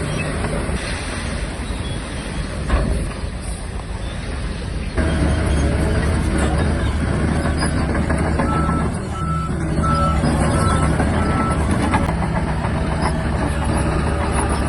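Shantui DH17-C3 bulldozer's diesel engine running under load. It gets louder about five seconds in. About three and a half seconds later a reversing alarm beeps roughly twice a second for about three seconds.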